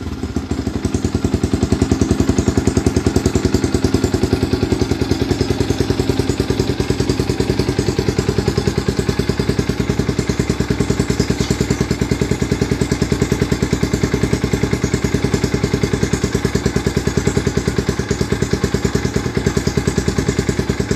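Yamaha Vixion's single-cylinder four-stroke engine idling through a GJZ Racing aftermarket exhaust, with a steady, even pulsing beat as it settles just after a rev.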